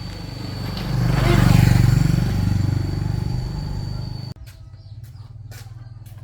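An engine running, growing louder to a peak about a second and a half in and then easing off, with a steady high whine over it; it cuts off abruptly a little after four seconds, leaving a quieter low hum with clicks.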